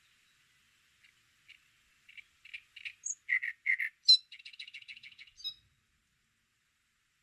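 A bird singing: separate chirping notes from about a second in, coming louder and faster, a sharp high note near the middle, then a quick trill of about ten notes a second that stops abruptly.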